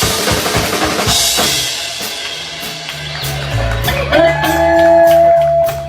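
Live rock band playing an instrumental passage: a busy drum part with bass drum, snare and cymbals, then a stepping bass line joined by a long held high note about four seconds in.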